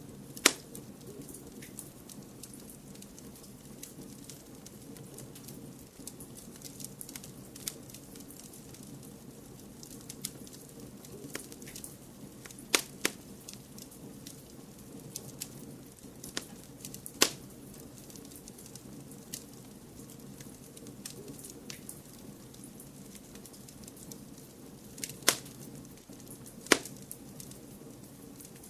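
Wood fire crackling in a fireplace: a steady low rush of burning with scattered small ticks and a few sharp, loud pops at irregular intervals.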